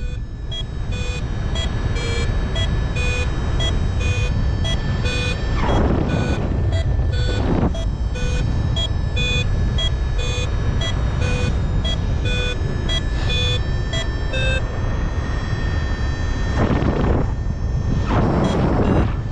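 A paragliding variometer beeping in a regular rhythm of about two short beeps a second, the tone it gives when the glider is climbing in lift. The beeping stops about three-quarters of the way through. Heavy wind rushes over the microphone throughout, with a few brief gusts.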